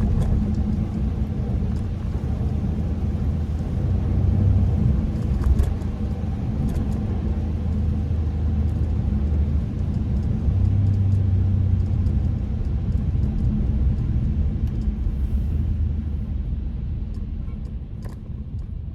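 Kia K5 (DL3) driving on the road, heard as a steady low rumble of engine and tyres with a hum that swells and eases, and scattered faint ticks; it fades away over the last few seconds.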